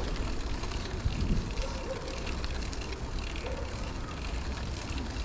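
Bicycle being ridden along a park path: steady wind rumble on the microphone over tyre and riding noise.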